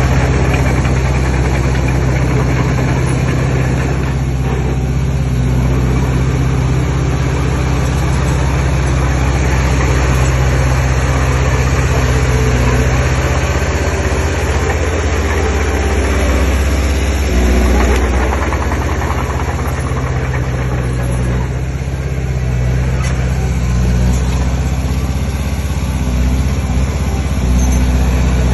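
Heavy diesel engine of earthmoving machinery running steadily, with a deep, continuous drone.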